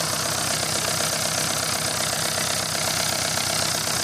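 Isuzu C240 four-cylinder diesel engine idling steadily, with an even diesel clatter.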